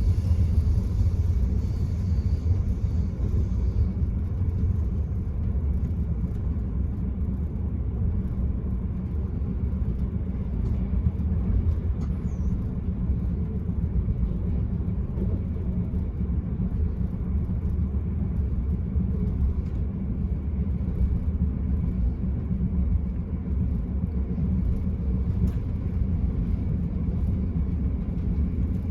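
Steady low rumble of an Enterprise passenger train running along the line, heard from inside the carriage, with a few faint ticks now and then.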